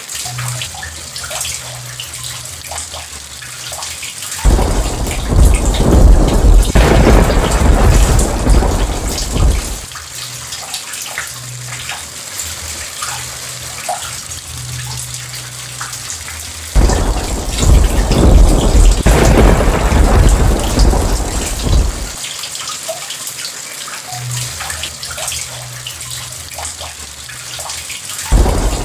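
Steady rain falling, with rolling thunder breaking in three times, each peal lasting about five seconds and louder than the rain; the last begins near the end.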